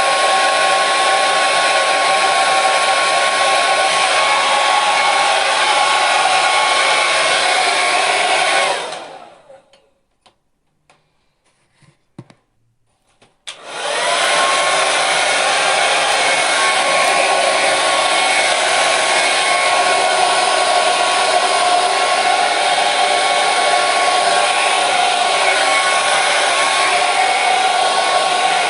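Hair dryer running with a steady rushing hiss and a thin whine. About nine seconds in it is switched off and winds down to near silence with a few faint clicks, then about four seconds later it is switched back on with a click and runs steadily again.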